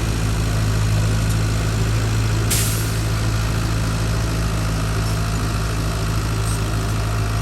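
Heavy diesel engine idling steadily, with a short hiss about two and a half seconds in.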